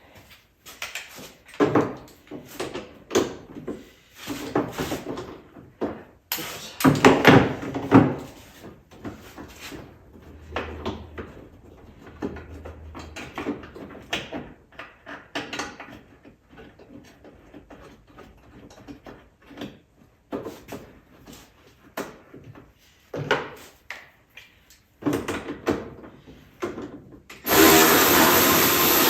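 Irregular knocks, clunks and clatter of tools and parts being handled during ATV reassembly. Near the end a loud steady noise starts suddenly and keeps going.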